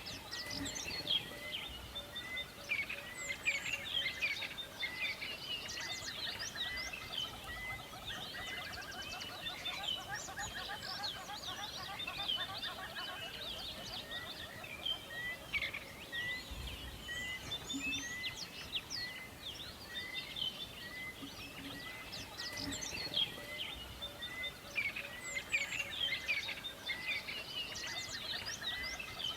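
Forest dawn chorus of many songbirds chirping and trilling over one another, with one bird repeating a short note at a steady pace, under two a second, through most of it.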